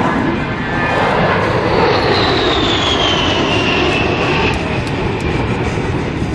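A-10 Thunderbolt II's twin turbofan jet engines roaring as the jet flies a turn over the field. A high whine in the engine noise falls steadily in pitch between about two and four and a half seconds in.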